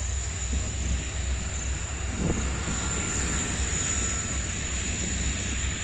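Freight train of open wagons rolling past: a steady low rumble of wheels on rail, with a brief heavier thump about two seconds in.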